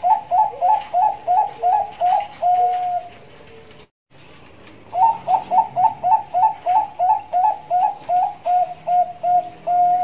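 Zebra dove (perkutut) of the Bangkok song line cooing its rapid staccato 'ngitit' series. Each phrase is a quick run of short notes, about four a second, ending on one long held note. The first phrase ends about three seconds in, a second starts at five seconds, and its last notes slow before the final held note.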